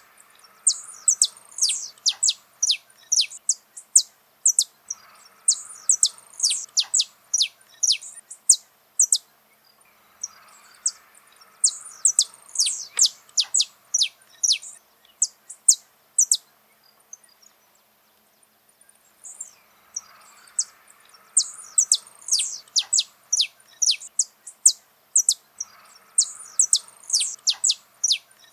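Saffron finch (canário-da-terra) singing: repeated bursts of rapid, sharp high-pitched notes, each burst a few seconds long with short pauses between, over a faint steady insect hum.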